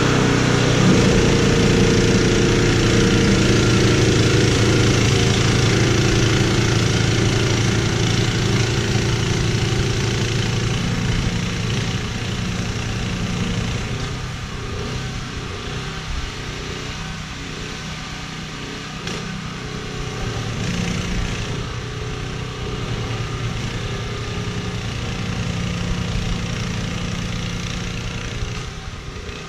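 An engine running steadily, loudest over the first dozen seconds and then easing to a lower level.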